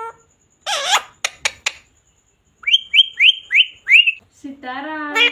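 Indian ringneck parrot calling: a harsh squawk, a few sharp clicks, then five quick rising chirps, and a drawn-out, speech-like call near the end.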